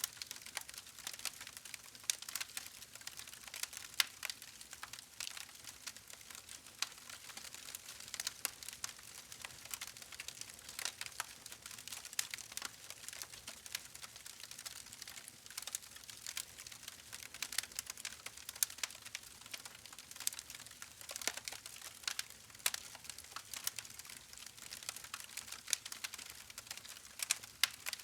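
Wood fire crackling: a dense, irregular run of small pops and snaps over a soft hiss, with a few sharper pops standing out.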